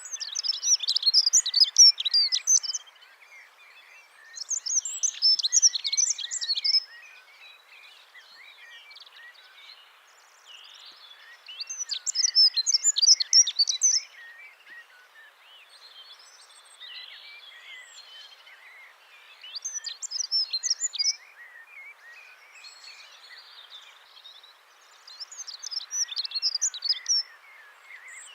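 A songbird singing repeated quick, high twittering phrases: five of them, each two to three seconds long, with pauses of several seconds between, over a faint steady hiss.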